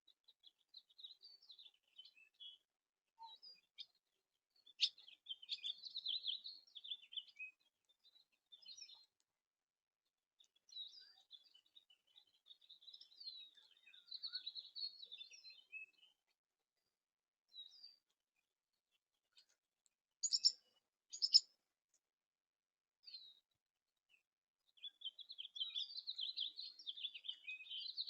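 Small backyard songbirds chirping and twittering in short, scattered runs, with two louder, sharp calls a second apart about two-thirds of the way through and busier twittering near the end.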